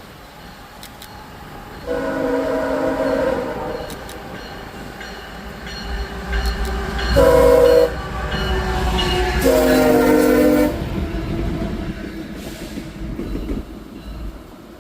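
Diesel freight locomotive sounding its multi-chime air horn: a long blast about two seconds in, a short one around seven seconds, then another long one. A low engine rumble rises underneath as the locomotive approaches.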